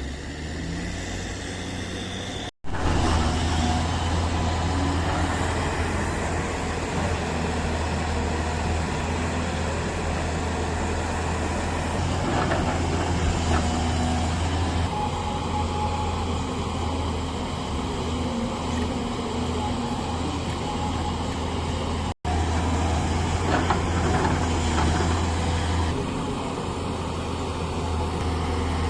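Heavy diesel machinery engine running steadily with a deep drone. The sound drops out for an instant twice, about two and a half seconds in and again about two-thirds of the way through.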